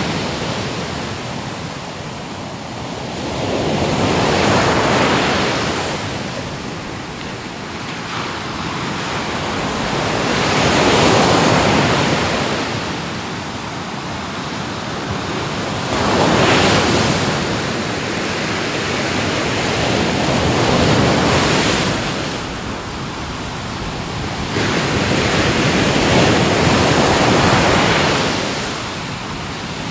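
Ocean waves breaking and washing up on a shore, a swell of surf rising and falling every four to five seconds, with wind on the microphone.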